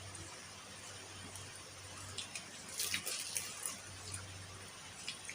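Wet chewing and lip-smacking sounds of someone eating cooked tilapia, with a cluster of sharp smacks and clicks in the middle.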